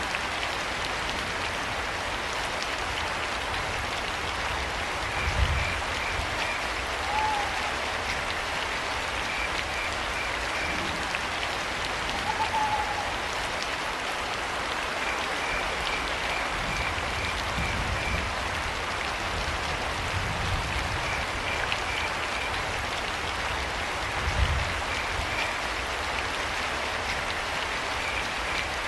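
Steady rain pattering, with crickets chirping in short trains of rapid pulses every few seconds. A few short owl hoots sound about 7 and 12 seconds in and again at the very end. Twice there is a brief low thump.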